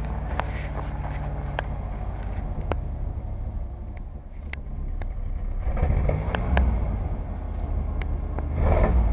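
A 1986 Dodge Ram W250's 318 V8 running at a steady idle. The revs briefly rise about six seconds in, and there are a few sharp clicks.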